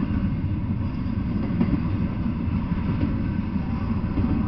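Double-stack intermodal freight train rolling past: a steady, unbroken low rumble of wheels on the rails.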